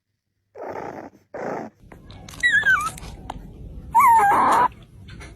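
A dog vocalizing: two short growls, then two higher whining calls that waver and glide in pitch.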